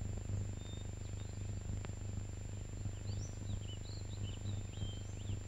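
Small birds chirping in short, high, quick calls through the second half, over a steady low hum.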